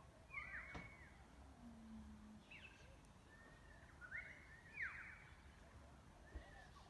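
Wild birds calling: short calls that sweep up and down in pitch, coming in clusters about half a second in, around two and a half seconds, and around four to five seconds in.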